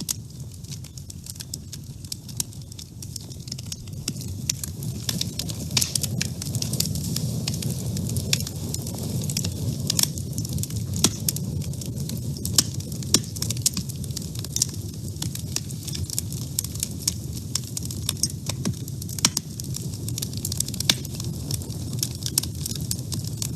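Wood fire burning in a woodstove: a steady low rush of flame with frequent, irregular sharp crackles and pops.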